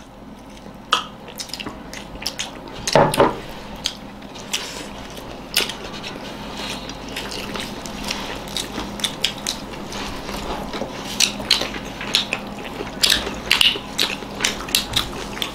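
Close-up eating sounds of several people chewing rice and pickles eaten by hand: many short, irregular wet clicks and smacks, with one louder sound about three seconds in.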